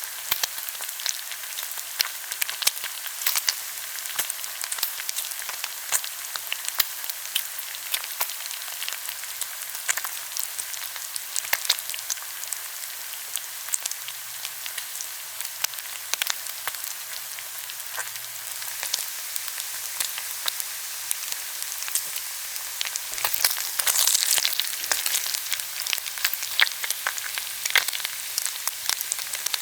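Pork belly sizzling on a grill: a steady hiss of fat frying, with frequent sharp crackles and pops. It swells louder for a couple of seconds about three quarters of the way through.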